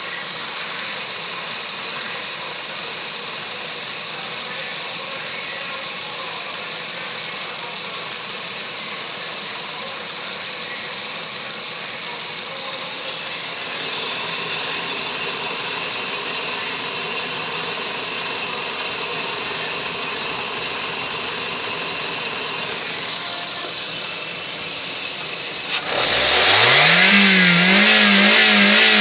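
Toyota 1NZ-FE 1.5-litre inline-four running steadily at low speed. About 26 seconds in it is suddenly revved hard, its pitch climbing within a second and then holding high.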